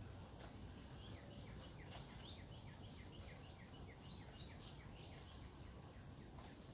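A bird calling a rapid series of short, high, falling chirps, about four a second, over faint background noise.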